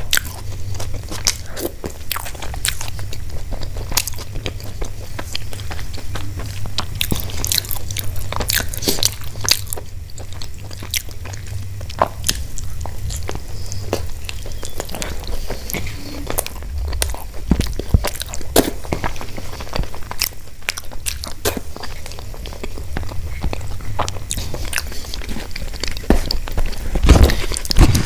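Close-miked chewing and biting of gobi paratha (cauliflower-stuffed flatbread), with many sharp, irregular mouth clicks and crunches over a steady low hum.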